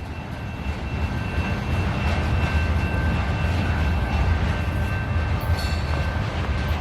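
CN diesel-hauled local freight train moving along the track, a steady low rumble that builds a little over the first couple of seconds. A faint steady high whine runs through most of it, with a brief higher sound about five seconds in.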